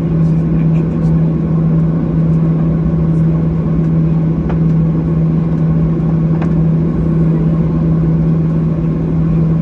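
Boeing 737-800 cabin noise: the jet engines and airflow make a steady, loud rush with a constant low hum, heard from inside the cabin.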